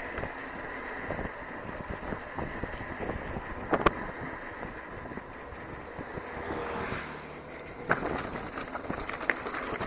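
Mountain bike rolling over a rough dirt trail: steady tyre and frame rattle with many small clicks, and two sharper knocks about four and eight seconds in.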